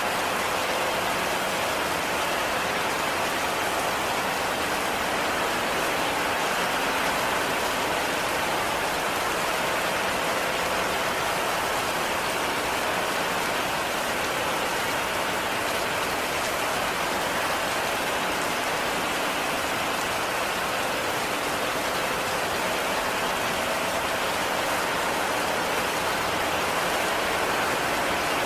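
Heavy rain falling in a steady, even hiss that neither swells nor fades.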